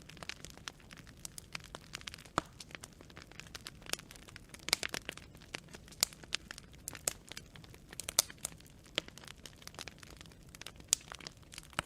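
Wood fire crackling: irregular sharp pops and snaps of burning branches over a low steady hiss, with a quick cluster of pops about five seconds in.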